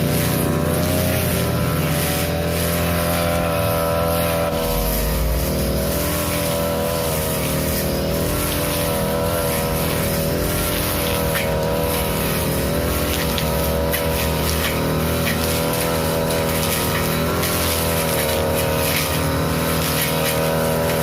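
Small petrol engine of a grass-cutting machine running steadily under load, its pitch wavering slightly up and down as it cuts thick, weedy grass.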